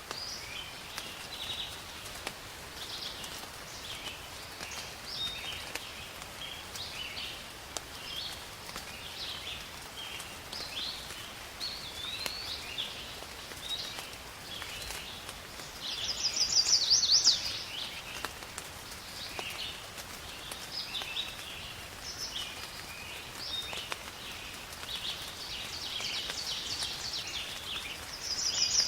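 Several songbirds chirping and singing almost without pause, with a louder rapid trill about sixteen seconds in and again at the very end, over a faint steady hiss.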